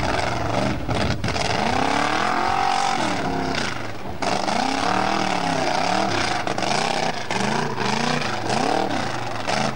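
Formula off-road competition car's engine revving hard, its pitch surging up and falling back again and again as the car works across a loose sand slope. The engine sound drops away right at the end.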